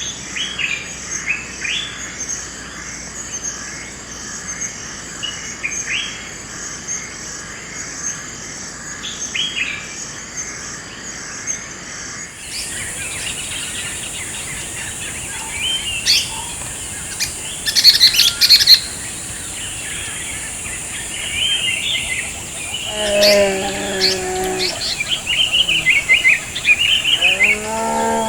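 Forest ambience of many birds chirping and calling over steady insect buzzing, with a shift to a different insect drone and louder birdsong about halfway through. A lower, drawn-out animal call sounds briefly near the end.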